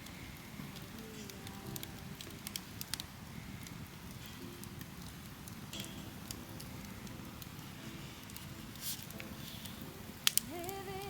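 Wood campfire crackling with scattered small pops, and two sharper pops or clicks close together near the end.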